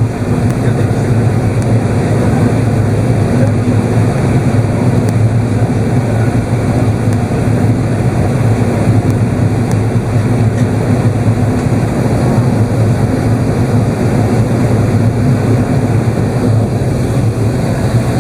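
Steady cabin noise inside an Airbus A380's upper deck: a low drone from the engines under an even rush of airflow, unchanging throughout.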